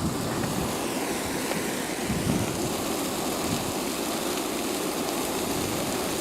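Steady rushing noise of a wildfire burning through black spruce forest.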